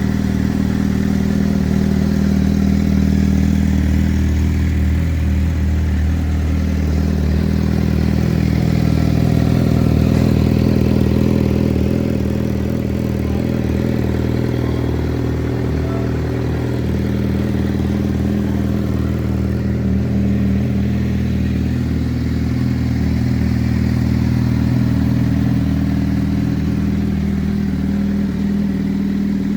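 Suzuki GSX-R750 K8's inline four-cylinder engine running steadily at idle.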